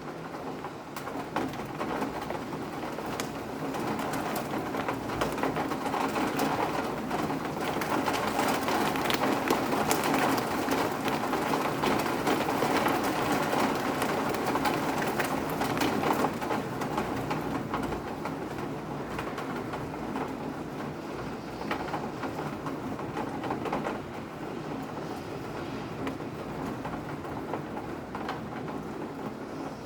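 Steady rain with many separate drops ticking and dripping. It swells a few seconds in and eases off after about seventeen seconds.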